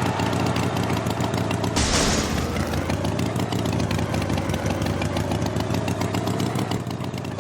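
An engine running steadily at idle, with a short burst of hiss about two seconds in.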